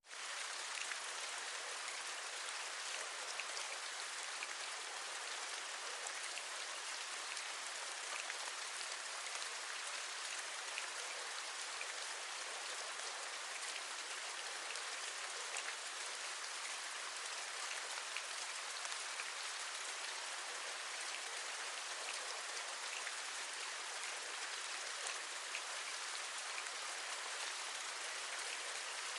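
Steady rain falling, with faint scattered taps of individual drops.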